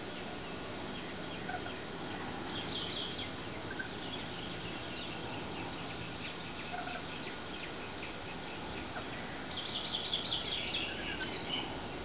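Birds calling: two bursts of rapid, high chattering notes, one a few seconds in and a longer one near the end, with scattered short chirps between, over a steady hiss.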